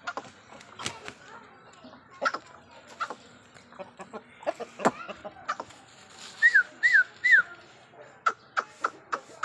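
A bird calling three short whistled notes, each falling in pitch, in quick succession about two thirds of the way in, among scattered light clicks and taps.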